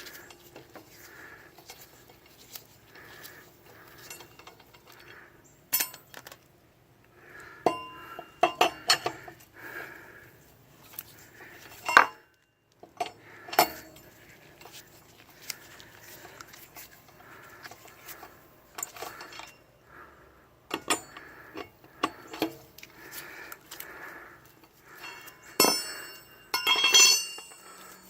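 Lug wrench working the lug nuts on a truck wheel: scattered metal clicks and clinks as the nuts are loosened, with a louder ringing metal clatter near the end.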